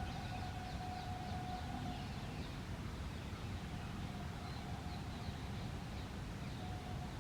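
Outdoor ambience: a steady low rumble with a faint steady hum that fades in and out, and faint, short, high bird chirps in the background.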